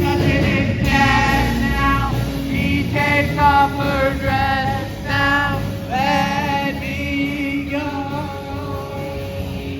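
A band playing, with a singer holding long, wavering notes over the instruments.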